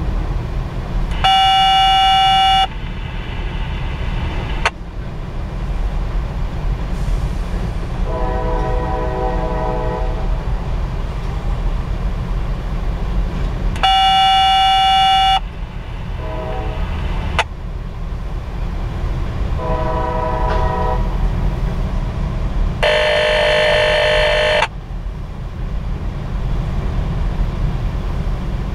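CSX covered hopper cars rolling through a grade crossing with a steady low rumble. Horn blasts sound several times: three loud ones of about a second and a half (about a second in, near the middle and near the end) and a few fainter ones in between.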